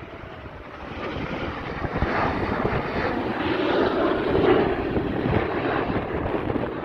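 Snowbirds CT-114 Tutor jets passing over, their turbojet noise building from about a second in to a peak a little past the middle and staying loud.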